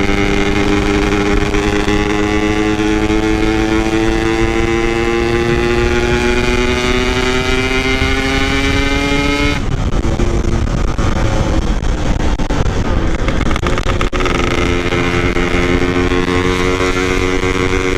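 Yamaha RX-King 135cc two-stroke single riding on the road, its engine note rising slowly as it pulls. About ten seconds in the engine tone drops away for a few seconds, leaving wind and road noise, then comes back at a steady pitch.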